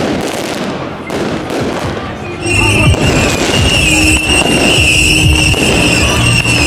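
Fireworks going off in a quick series of bangs and crackles. About two and a half seconds in they get much louder, and a steady high-pitched whistle joins and carries on.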